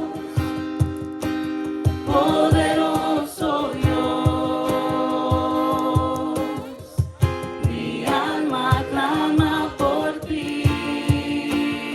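Group worship singing: several voices holding long, wavering notes over sustained chords, with a steady low beat about twice a second.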